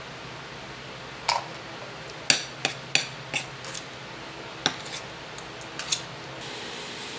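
Cutlery and dishes clinking: about a dozen short, sharp knocks spread over several seconds, over a steady hiss.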